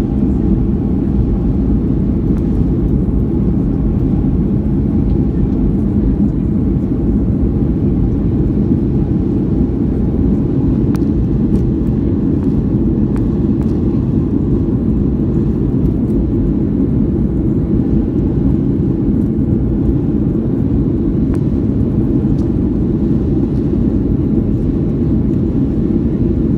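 Boeing 757-200 cabin noise during the initial climb just after takeoff: its Rolls-Royce RB211 engines at climb power with the rush of air over the fuselage, a steady, loud low rumble that does not change.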